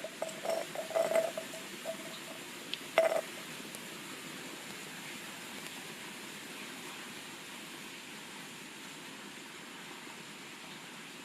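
A few light knocks and clinks, some with a brief ringing tone, in the first three seconds, the loudest about three seconds in; then a steady hiss.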